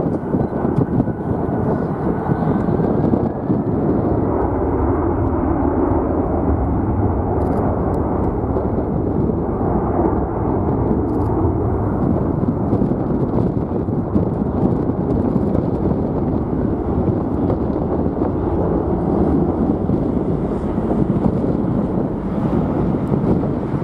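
Jet airliner's engines at takeoff power, a steady, loud roar, with strong wind buffeting the microphone. A faint thin whine rises slightly in the first few seconds.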